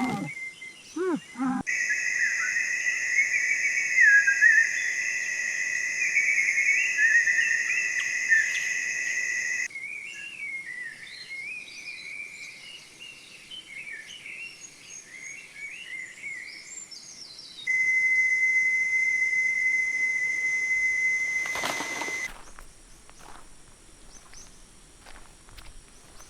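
Rainforest ambience: a steady high whistling drone with birds chirping and calling over it. The sound changes abruptly several times, bird calls alone for a while, then the drone again. A brief loud rustling noise comes near the end, then a quieter stretch with faint ticks.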